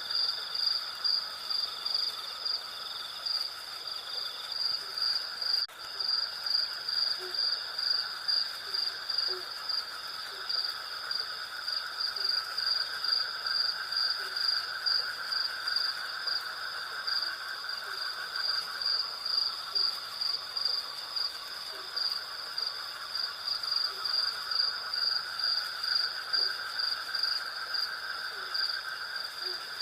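Night insect chorus: crickets chirping in a steady rhythm of about two chirps a second, over a continuous higher and lower insect drone. Short, soft low calls come every second or two.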